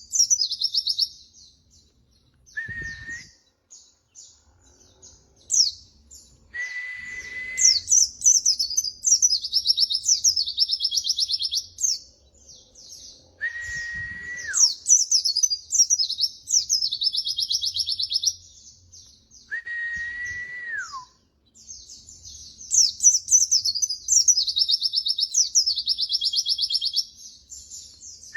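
White-eye (pleci) singing: fast, high twittering phrases in repeated bursts. A separate, lower steady whistle comes four times, each held about a second and ending in a downward slide.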